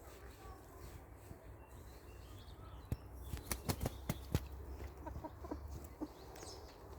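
Chickens clucking quietly: several short soft clucks a little past the middle. Just before them comes a quick run of about six sharp clicks or knocks, all over a low steady rumble.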